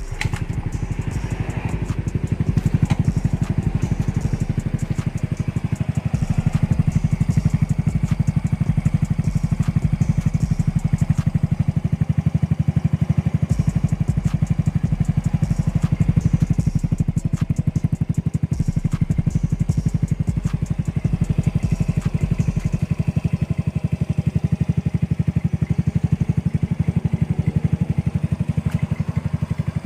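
Motorcycle engine idling steadily through an aftermarket R8 'chicken pipe' exhaust, on a cold start before the engine has warmed up.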